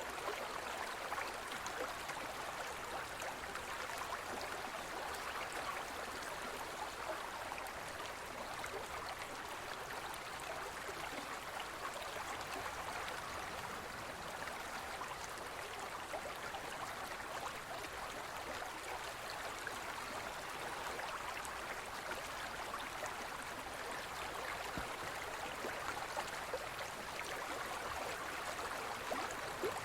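Forest stream flowing over rocks: a steady rush of water with fine splashing and gurgling.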